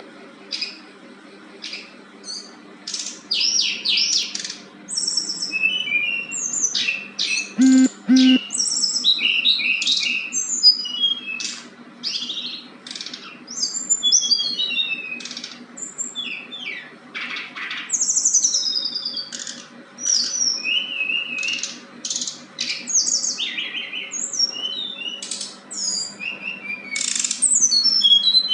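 Caged songbird singing a fast, varied run of high chirps, short trills and sweeping whistled notes, phrase after phrase with brief gaps, over a faint steady low hum.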